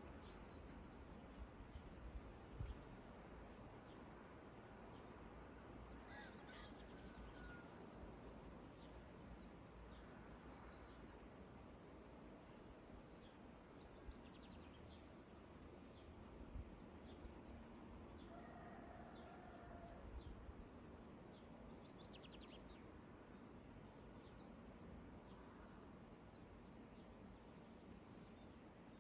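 Faint early-morning outdoor ambience: a steady high insect trill, like crickets, runs throughout. A few faint, scattered bird chirps come and go over it.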